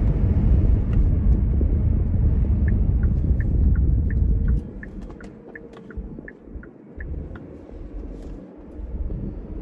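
Kia Stinger's twin-turbo V6 pulling hard under heavy throttle, heard from inside the cabin as a loud, deep rumble. A little past halfway it drops off suddenly as the throttle is lifted, leaving a much quieter engine and road rumble.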